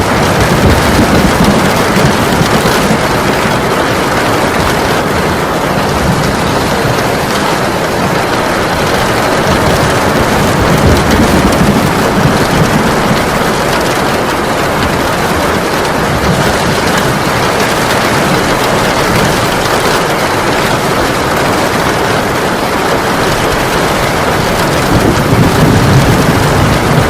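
Heavy rain pouring down steadily, with low rumbles of thunder swelling up a few times: about a second in, around eleven seconds in and near the end.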